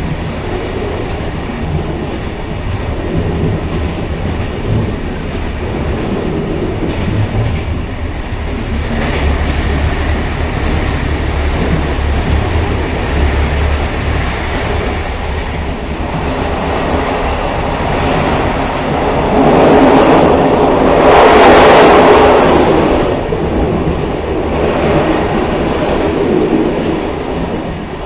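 Railcar running along the track: a steady rumble and rattle of wheels on rails. About two-thirds of the way through it swells louder and brighter for a few seconds, then settles back.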